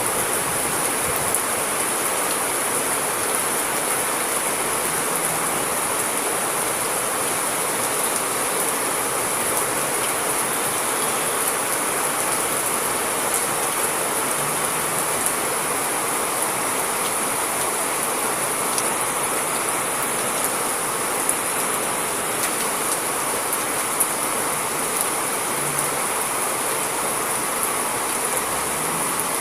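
Steady heavy rain: an even, continuous hiss of falling water with faint scattered drop ticks.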